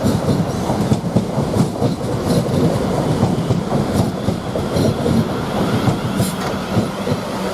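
South Western Railway Class 444 electric multiple unit, two units coupled, running along the platform, its wheels rumbling and clattering over the rails.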